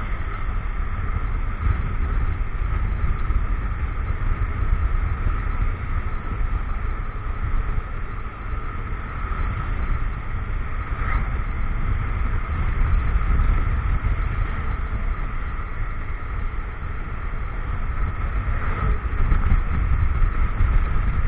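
Motorcycle engine running on the move, with a steady rumble of wind buffeting the action camera's microphone.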